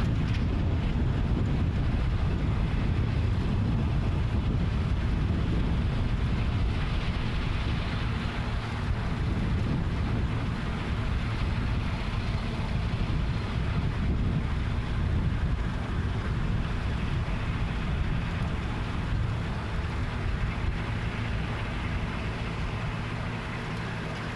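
Tractor engine running steadily under mowing load, with wind buffeting the microphone.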